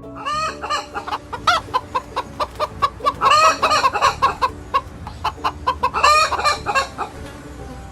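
Chickens clucking: a quick run of short calls, with longer, louder stretches of calling about three seconds and six seconds in.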